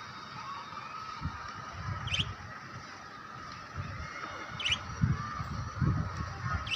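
Pet lovebirds chattering in a continuous twitter, with three short, sharp high chirps: about two seconds in, midway, and near the end. Low thuds and rumbles come and go underneath.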